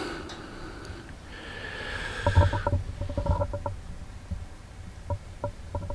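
Light metallic clinks and taps of small metal bracket parts being handled and test-fitted, with a soft scraping hiss about a second and a half in.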